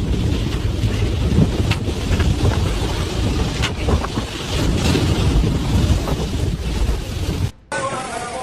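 Strong storm wind buffeting the microphone, a loud, rough rumble with gusty swells. It cuts off abruptly near the end.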